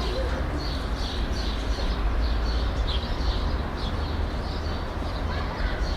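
City residential ambience: small birds chirping repeatedly over a steady low rumble of distant traffic.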